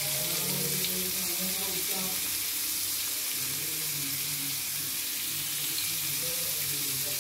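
Asparagus frying in oil in a pan, a steady sizzling hiss.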